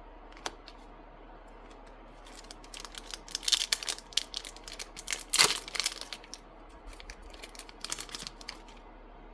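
A trading-card booster pack being torn open, its wrapper crinkling in a run of short crackles that starts about two and a half seconds in, with the loudest tear about halfway through.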